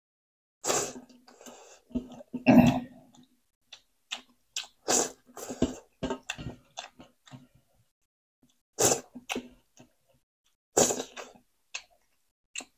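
Close-up eating sounds: a person chewing, smacking and crunching food in short separate bursts about every second or two, with silent gaps between.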